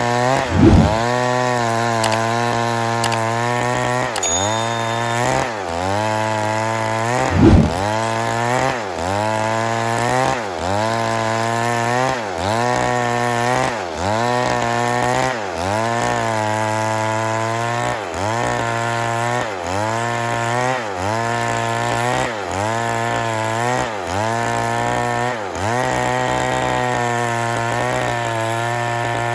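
Stihl MS 382 two-stroke chainsaw running at high revs under load, its pitch sagging and recovering about every second and a half as it works through the wood. There are two loud thumps, one under a second in and another about seven seconds in.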